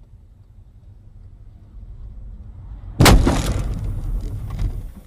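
Car collision: low, steady road rumble, then about three seconds in a sudden loud crash bang followed by a second or two of clattering impacts and debris dying away.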